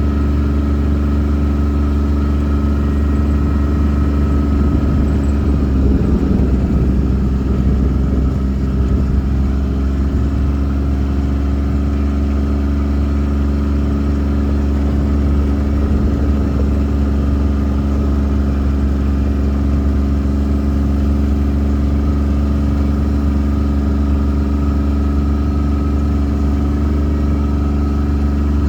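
Motor vehicle engine running at a steady speed, with a short burst of added noise about six seconds in.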